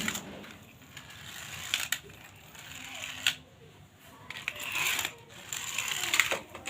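Toy cars being handled: a few sharp clicks with rustling clatter in between, loudest near the end.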